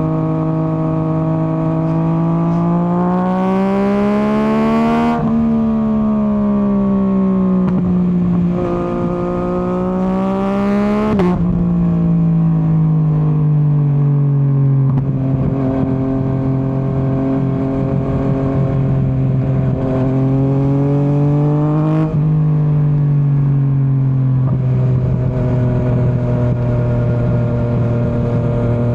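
Yamaha MT-09's 890 cc three-cylinder engine on the move. It revs up and drops sharply at three upshifts, about five, eleven and twenty-two seconds in, then settles to a steady cruise.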